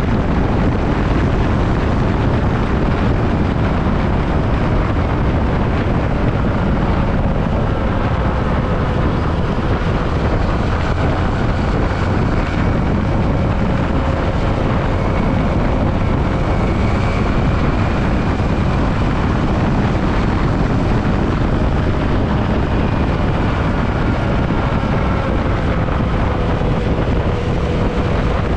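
Yamaha WR155 motorcycle on the move: steady heavy wind noise on the microphone, with the single-cylinder engine's note faintly under it, its pitch drifting slightly up and down.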